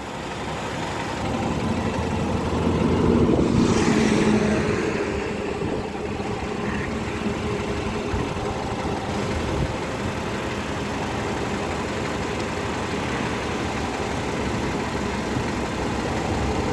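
Eicher truck's diesel engine idling, swelling louder for a moment about three to four seconds in, then running steadily.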